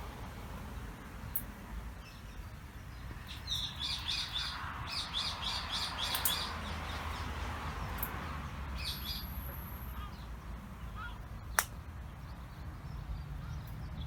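A small bird singing: quick runs of high chirps for a few seconds, then a short burst again a few seconds later, over a steady low rumble. A single sharp click comes near the end.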